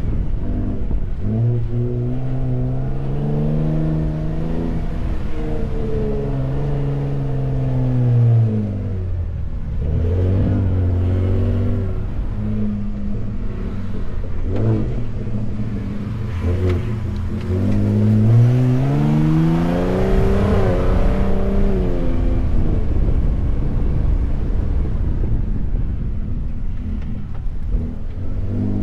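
Ford F-150 Raptor's twin-turbo V6 engine driving over sand dunes, its pitch rising and falling with the throttle and gear changes. It climbs in the first few seconds, drops about eight seconds in, and climbs again around seventeen seconds in.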